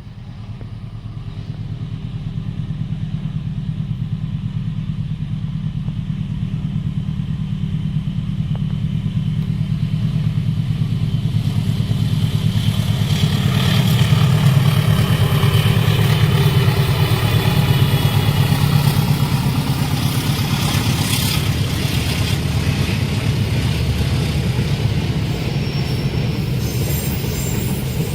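A diesel-hauled passenger train passing at a level crossing: a deep, pulsing engine rumble swells over the first half and then runs on steadily and loudly.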